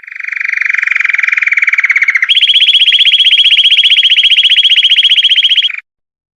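Belgian canary singing a rolling trill: a very fast run of repeated notes, which jumps to a higher pitch a little over two seconds in and then stops abruptly.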